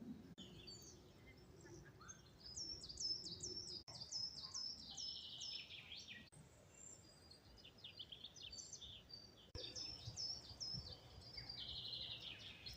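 A songbird singing: runs of quick, high chirps that step down in pitch, given in repeated phrases over a faint outdoor hush.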